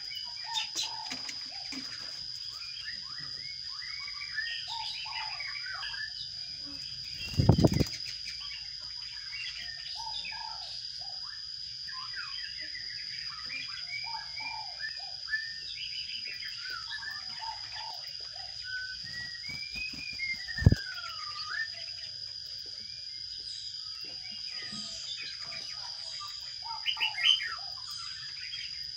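Sparrows chirping at a nest box: a dense run of short, quick chirps throughout, with two loud knocks, one about a quarter of the way in and one past two-thirds. A long falling whistle comes just before the second knock, and a burst of louder chirps comes near the end.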